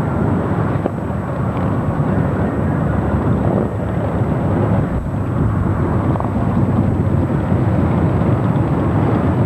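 A procession of many motorcycles riding past, their engines blending into a steady, dense low rumble.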